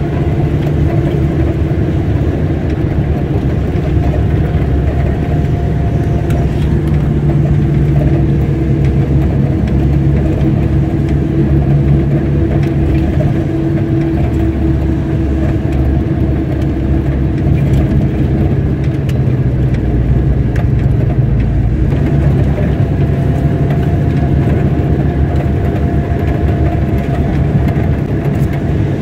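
Car driving along a road: a steady engine hum over road noise, the engine note shifting slightly now and then.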